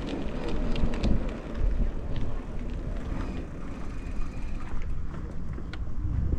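Folding e-bike being handled beside a vehicle: scattered light clicks and rattles over a steady low rumble.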